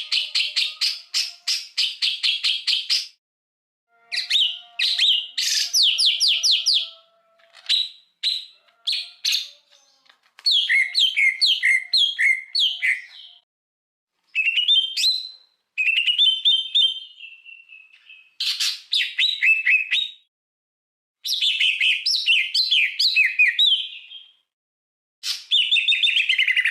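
A songbird singing in bursts of fast, repeated chirps and trills. Each phrase lasts a few seconds and is broken by a short silence. There are quick runs of notes and slurred, falling notes, with a drawn-out whistle about halfway through.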